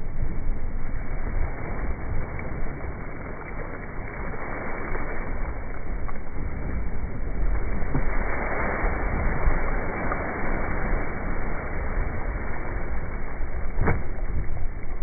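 Steady wind rumbling on the microphone and water rushing past a Laser dinghy's hull while it sails upwind, with a single sharp knock near the end.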